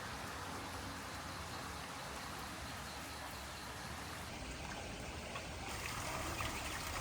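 Rain falling with water running and trickling, a steady hiss, with a few light ticks near the end.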